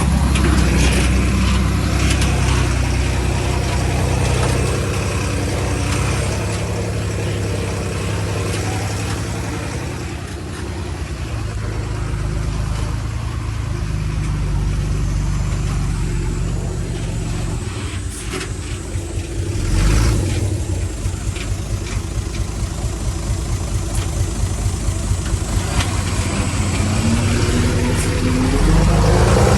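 Diesel engine of heavy earthmoving machinery running and working, its speed rising and falling. There is a brief louder burst about twenty seconds in, and the engine revs up near the end.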